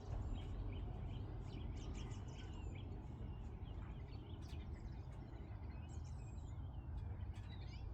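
Small birds chirping and twittering in quick, scattered calls, with a steady low rumble underneath.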